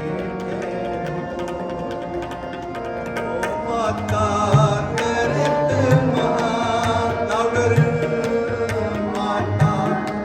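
Devotional music with tabla drumming under steady held tones. Singing joins about three and a half seconds in.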